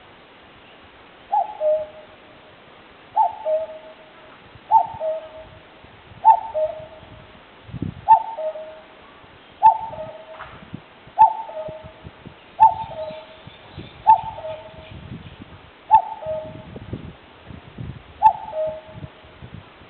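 Common cuckoo calling its two-note "cuck-oo", a higher note falling to a lower one, repeated about eleven times at an even pace of roughly one call every one and a half seconds.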